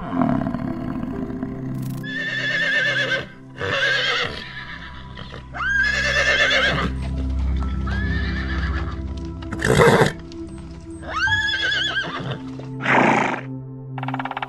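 Horse whinnying about half a dozen times in a row, each neigh a wavering call of about a second, over steady background music.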